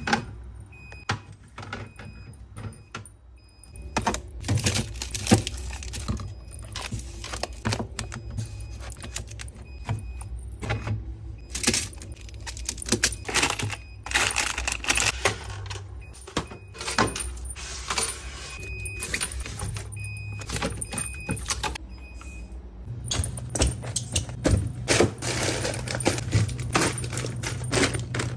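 Groceries being packed into a refrigerator: plastic packaging rustling and containers clinking and knocking against each other and the shelves. A steady low hum runs underneath and grows louder near the end.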